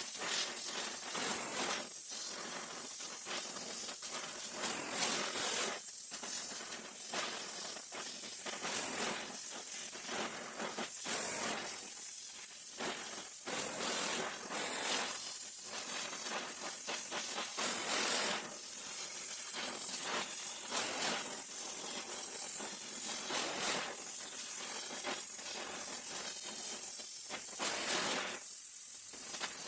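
Gas welding torch hissing steadily while heating and puddling cast iron, with frequent small crackles.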